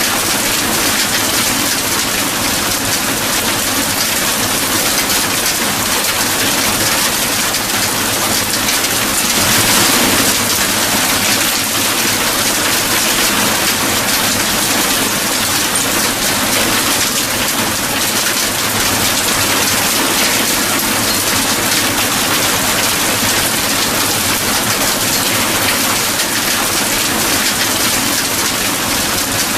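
Steady rain falling, a dense even hiss that swells a little louder for a couple of seconds about ten seconds in.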